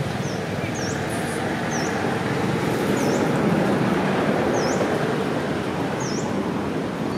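Steady low rumbling background noise. Over it, a bird gives short high chirps that sweep down and back up, about once every second or so.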